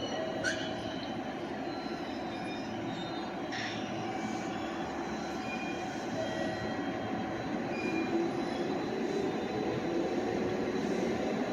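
Electric passenger train moving along a station platform, a steady running rumble with short high squeals from the wheels on the rails.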